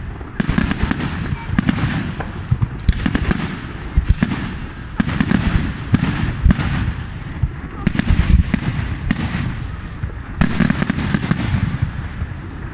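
Aerial fireworks display: shells bursting overhead in a run of sharp bangs, in clusters every second or two, with crackling between them, dying down near the end.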